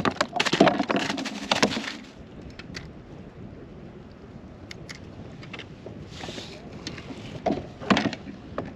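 Clicks, knocks and rattles of a fish being landed and handled on a kayak, busiest in the first two seconds, then scattered knocks and a couple of short splashy bursts.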